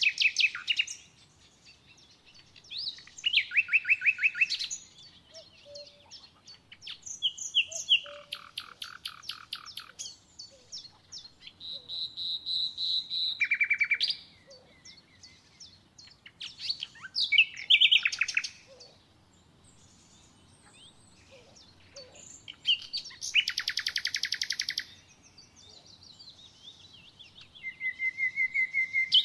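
Songbirds singing: short phrases of rapid, high trills and repeated notes, each a second or two long, coming every few seconds.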